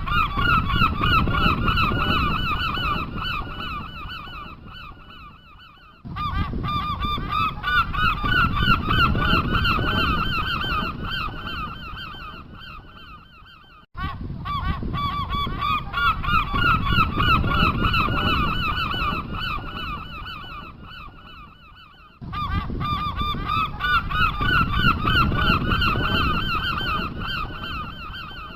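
A flock of geese honking in a dense, overlapping chorus. It comes in stretches of about eight seconds that each start suddenly and fade away.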